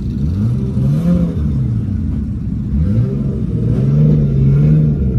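Nissan Skyline R33's engine revved up and down in place, about three rises in pitch, the last held high for a second before it drops.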